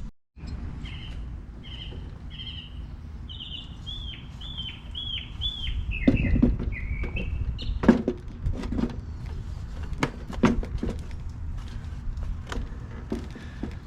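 A songbird calling a quick series of short hooked chirps, repeated a dozen or so times. Near the middle and end of the run of chirps come several sharp knocks and clunks.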